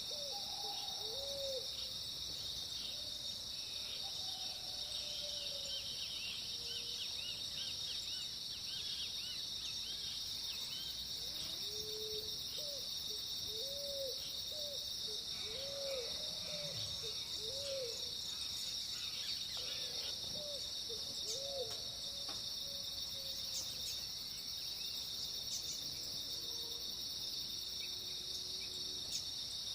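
Dawn chorus in the countryside: a steady, high insect chorus of crickets, with birds calling over it. One bird gives series of short, low hooting notes in several bouts, and another sings a quick run of higher twittering notes about a third of the way in.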